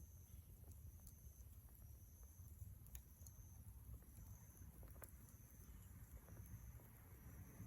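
Faint wood campfire crackling: a few sharp pops every second or two over a low steady rumble.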